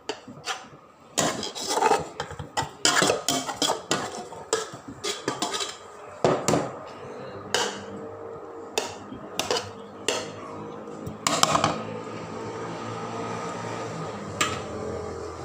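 A metal spoon clinking, knocking and scraping against a cooking pot, repeated many times, as rice is spooned in and spread in layers. After about twelve seconds the knocking stops, leaving a steady background noise and one last clink near the end.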